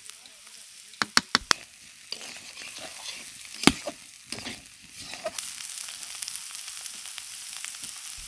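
Sliced bitter gourd and potato sizzling in oil in an iron kadai as they fry until crisp, stirred with a metal spatula. The spatula knocks against the pan four times in quick succession about a second in and once more, loudest, near the middle, and the sizzle grows fuller in the second half.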